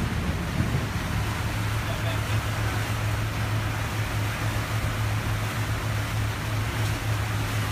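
Motorboat engine running with a steady low drone, under an even hiss of rain and wind.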